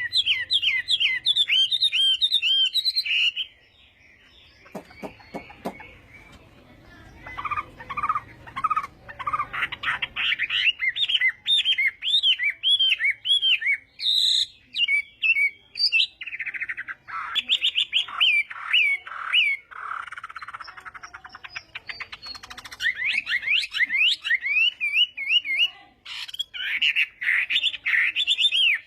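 Chinese hwamei singing: loud phrases of fast, repeated whistled notes that bend up and down, changing from phrase to phrase, with a quieter pause about four seconds in and a short break near the end.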